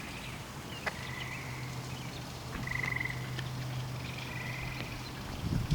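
Frogs calling outdoors: short, rapidly pulsed trills of about half a second, repeated every second or so, over a steady low hum.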